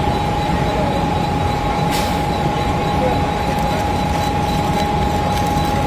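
Mumbai suburban electric train running with a steady hum, a constant whine over a low rumble. A single sharp click comes about two seconds in.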